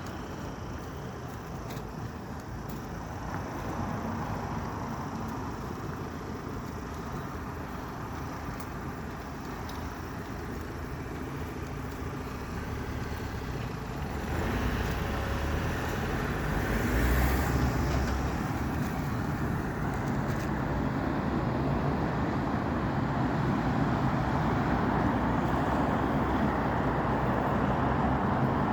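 Road traffic driving past, a steady rush of tyres and engines. One vehicle passes close about halfway through, and the traffic stays louder after that.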